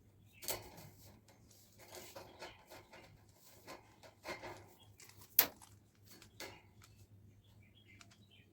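Table-fan parts being handled and fitted by hand: scattered light taps, clicks and rustles, with one sharp click a little over five seconds in.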